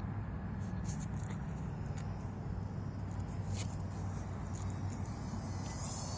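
Low rumbling wind noise on the microphone, with the faint steady buzz of a small RC plane's electric motor in flight and a few light clicks.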